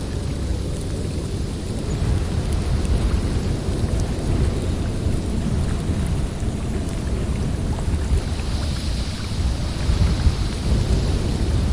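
Snowstorm wind blowing in a steady deep rumble, with a higher hiss swelling up about eight seconds in.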